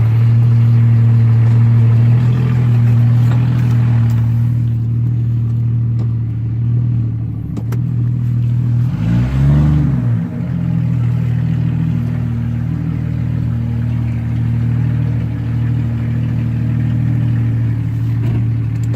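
Jeep 4.0L inline-six running at low revs through a straight-pipe exhaust with no muffler, loud, with one short rev that rises and falls about halfway through.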